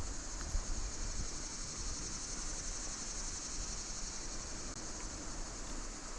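Chorus of insects trilling steadily in a high, dense buzz, with a low rumble on the microphone beneath.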